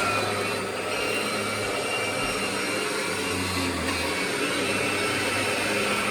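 Kirby Generation 6 upright vacuum cleaner running steadily, a high motor whine over the rush of air.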